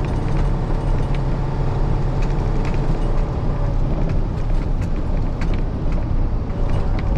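Truck engine running steadily, heard from inside the cab, with scattered sharp clicks over the drone.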